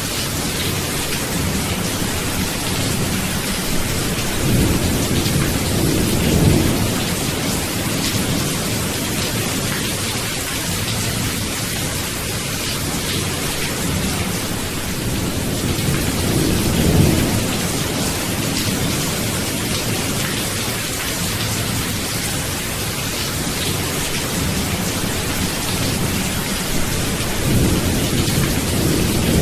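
Steady heavy rain hissing, with low rolling thunder swelling up three times: about five seconds in, around the middle, and near the end.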